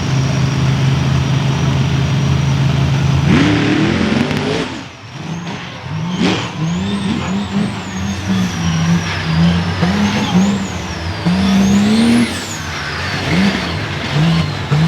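Monster truck engines racing. The engine note holds steady at first, then about three seconds in the throttle opens and the pitch climbs. Through the rest of the run the pitch rises and falls repeatedly with the throttle, and a high whistle wavers above it.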